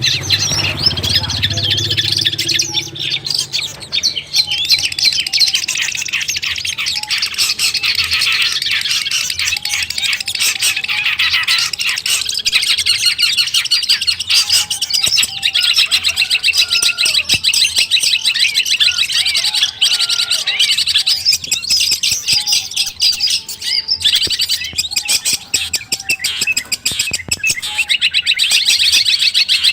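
Long-tailed shrike (cendet) singing a fast, continuous chattering song, with short lower whistled notes scattered through it.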